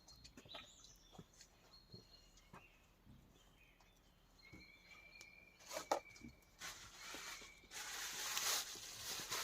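Quiet forest sounds: scattered small clicks and rustles with a few short, high bird calls. In the last few seconds a louder, even rushing noise comes in.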